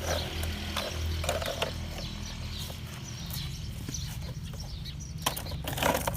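Birds chirping, over a steady low hum, with a few sharp clicks about five to six seconds in.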